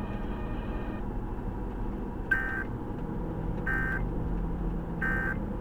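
Three short, evenly spaced buzzy data bursts from the car radio: the Emergency Alert System end-of-message code that closes a broadcast tornado warning. Steady road and engine noise from the moving car runs underneath.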